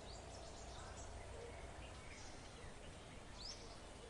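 Faint outdoor ambience with a low rumble and a few short, high bird chirps, the clearest a quick rising chirp about three and a half seconds in.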